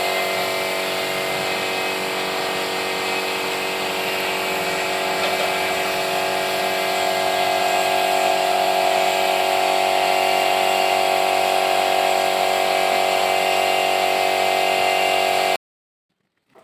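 Electric power tool motor running steadily at constant speed, a little quieter for a few seconds early on, then cutting off abruptly about a second before the end.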